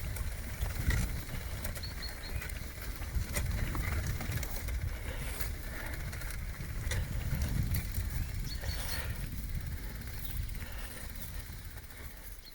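Riding a bicycle: a steady low rumble of wind on the microphone and tyres on the road, with scattered small rattles and clicks from the bike.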